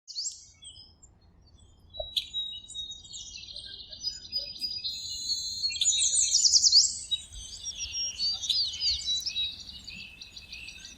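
Several birds chirping and singing, high quick chirps and trills that are sparse at first and thicken into a dense chorus from about two seconds in.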